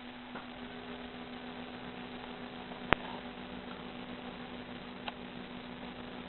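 A low steady hum over a constant hiss, broken by one sharp click about three seconds in and a couple of fainter ticks.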